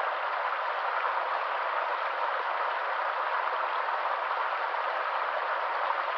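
Water of a small spring flowing, a steady even splashing sound with no breaks.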